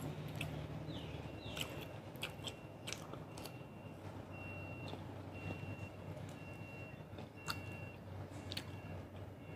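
Close-up mouth sounds of someone biting and chewing crunchy broccoli and cauliflower, sharp little crunches and clicks. Behind it a faint high beep repeats at a steady pace, like a vehicle's reversing alarm.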